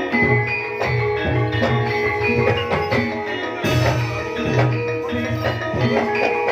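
Jaranan gamelan music: bronze gongs and metallophones ringing in interlocking tones over a steady drum beat of about two strokes a second.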